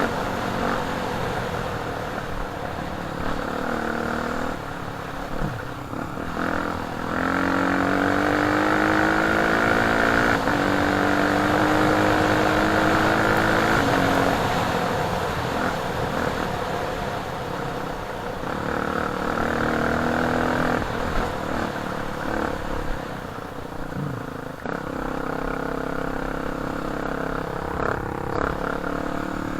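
Dirt bike engine running under way, its pitch climbing as it accelerates and dropping suddenly about ten seconds in, then rising and easing off again as the rider works the throttle.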